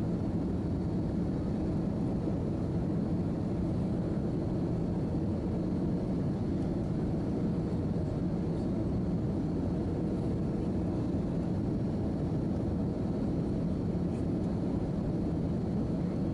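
Steady cabin noise inside an Airbus A319-111 airliner: a low, even drone of the engines and airflow with a faint steady whine, unchanging throughout.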